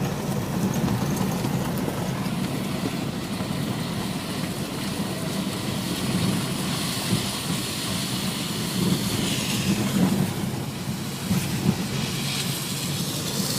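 Vehicle engines running steadily: a continuous low hum with a hiss over it.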